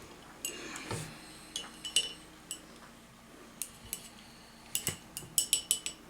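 Small hard objects clinking with a short ringing: a few scattered light taps, then a quick run of about half a dozen clinks near the end.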